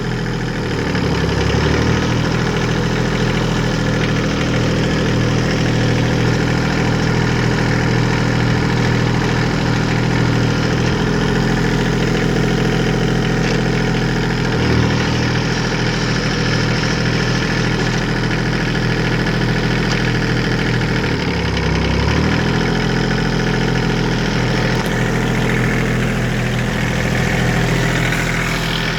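Kubota B8200 tractor's three-cylinder diesel engine running steadily. Its speed dips briefly and recovers three times: about a second in, about halfway through, and about three quarters of the way through.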